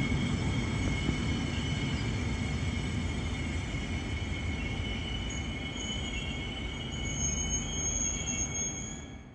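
NMBS passenger train coaches rolling slowly past, their wheels squealing on the rails in steady high tones over a low rumble. A higher squeal joins about five seconds in and grows louder near the end.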